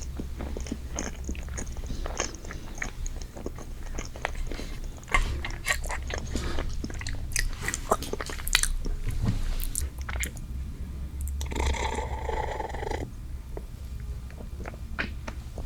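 Close-miked eating of soft strawberry desserts: wet chewing and biting with many small mouth clicks. About twelve seconds in, a louder noisy sound lasts just over a second.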